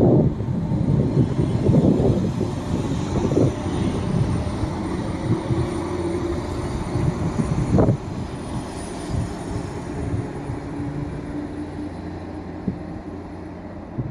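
Diesel multiple-unit train running, a steady engine drone over a low rumble, with knocking in the first couple of seconds and one sharp knock about eight seconds in, slowly fading.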